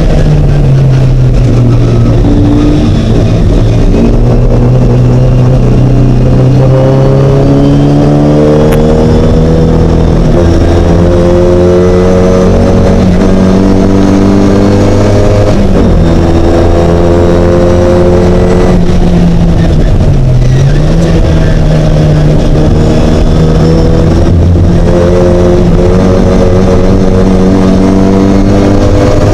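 Mini race car's engine running hard and loud. The revs climb slowly and drop back several times, with the sharpest drops about 16 and 20 seconds in.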